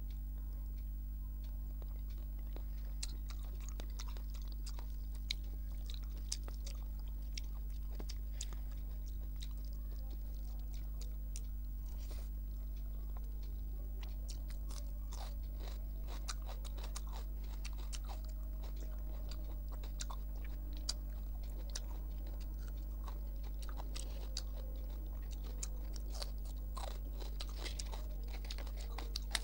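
Close mouth sounds of a person eating rice and curry by hand: chewing with crisp crunches of crunchy food, the clicks coming thicker in the second half. A steady low electrical hum runs underneath.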